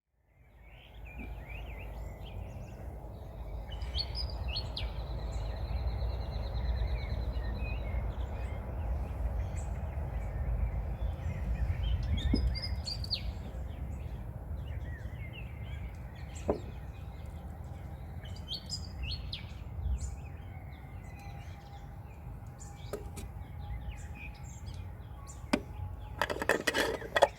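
Several birds chirping and singing, one with a fast repeated trill about four seconds in, over a steady low rumble. A short burst of rapid clicking and clattering comes near the end.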